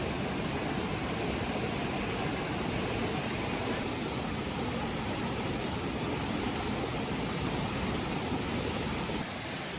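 Steady rushing of a waterfall, an even wash of falling water. A faint high steady tone sits over it from about four seconds in until shortly before the end.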